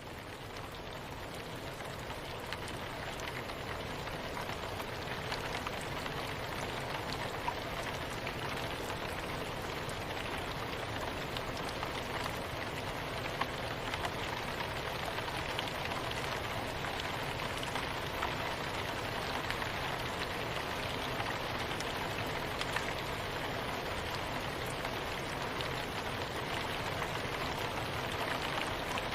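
Steady soft rain falling, an even hiss with scattered drop ticks, growing louder over the first several seconds and then holding level.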